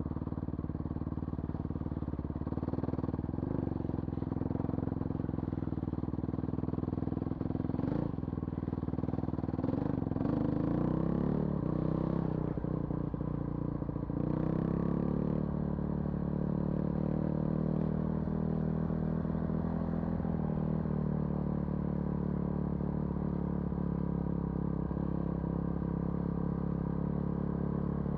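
Vehicle engine running while driving on a rough road. Its pitch rises and falls several times about a third of the way in, then holds steady.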